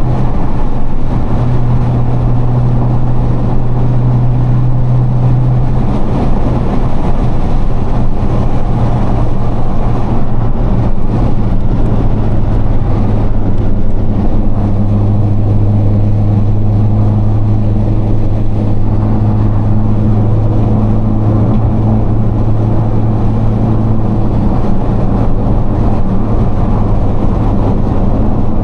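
Nissan GT-R R35's twin-turbo V6 droning steadily at highway cruise, heard from inside the cabin over road and wind noise. The engine note drops a little in pitch about halfway through and holds there.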